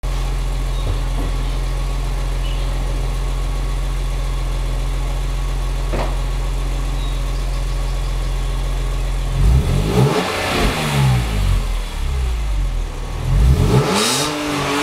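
BMW E46 M3's S54 straight-six running through a Billy Boat exhaust with its rasp sections intact: a steady idle for about nine seconds, then revved in short blips, the pitch climbing and falling back, with a louder rev near the end.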